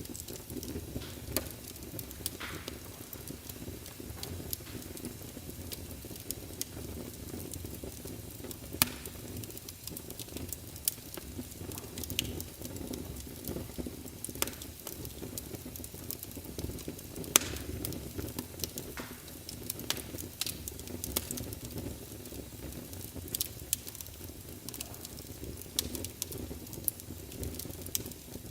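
Wood logs burning in a fireplace: a steady low rumble of flames with frequent sharp crackles and pops at irregular intervals, the loudest pop a little past halfway.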